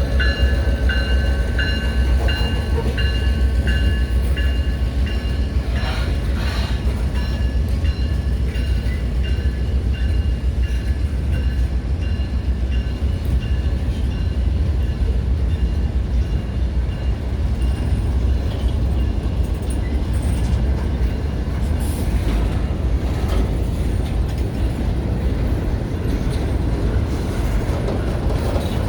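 Florida Central Railroad train running by with a steady, heavy low rumble. For the first several seconds a bell rings in repeated strokes, about one and a half a second, and then fades out.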